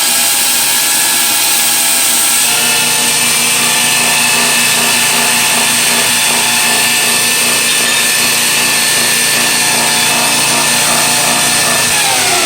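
2x72 inch belt grinder running at speed: a steady motor whine with a high hiss from the belt. Shortly before the end the pitch starts to fall as the grinder is switched off and winds down.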